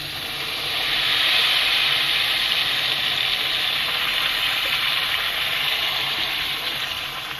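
Chicken kebabs sizzling in very hot oil in a pan. The frying hiss swells about a second in as the ground masala goes into the oil, then holds steady.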